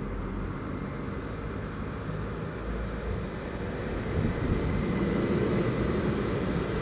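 Train approaching, a steady rumble that grows louder from about four seconds in.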